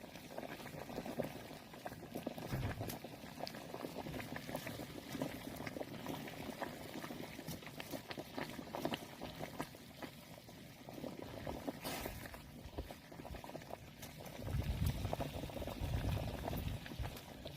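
A pot of waxy corn boiling over a wood fire, bubbling steadily with scattered sharp clicks. A low rumble comes in for a couple of seconds near the end.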